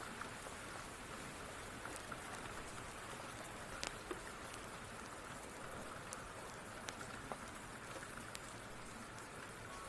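Steady rain, with a few sharp clicks and pops scattered through it.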